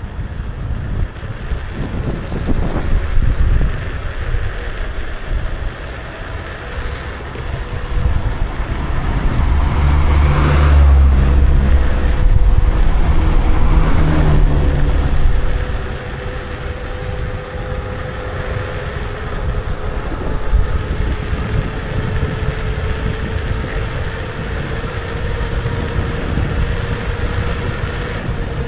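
Wind rushing over the action camera's microphone while riding a Kukirin G2 electric scooter, with a thin steady whine from the scooter's hub motor. A louder low rumble swells from about eight seconds in and drops off around fifteen seconds.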